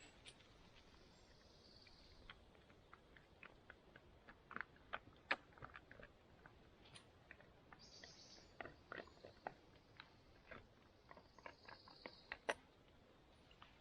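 A dog chewing and crunching its food in scattered, irregular crunches.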